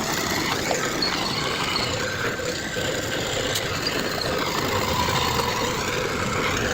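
Heavy earthmoving machinery, bulldozer and dump trucks, with engines running steadily.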